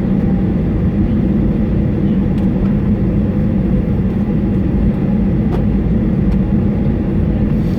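Steady low rumble inside the cabin of a Boeing 737-800, from its CFM56 jet engines and airframe, heard from a rear window seat, with a constant hum under it. The level holds even with no rise in pitch, so the engines are not yet spooling up for the takeoff roll.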